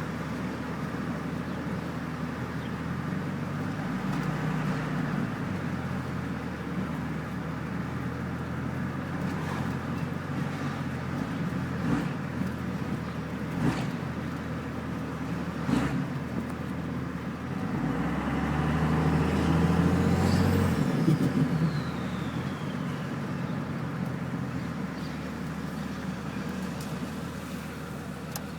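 Cummins 24-valve diesel with a VP44 injection pump, running through a 6-inch exhaust. It idles steadily, is revved briefly about four seconds in, and is revved harder and longer about two-thirds of the way through, followed by a faint falling whistle. A few sharp clicks come in between the revs.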